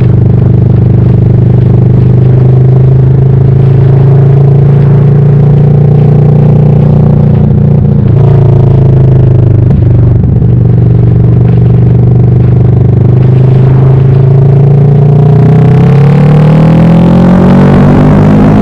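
Kawasaki Vulcan S 649 cc parallel-twin motorcycle engine running loud under way. It holds a steady speed, wavers briefly about halfway through, then rises steadily in pitch over the last few seconds as it accelerates.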